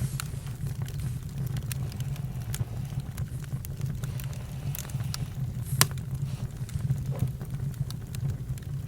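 Campfire crackling, with scattered sharp pops over a steady low rumble; one louder pop comes about six seconds in.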